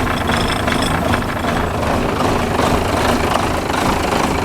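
Renault Major truck's MIDR 420 straight-six diesel idling steadily with the cab tilted up, the engine exposed. It is running smoothly on freshly repaired injectors, and sounds even pleasant.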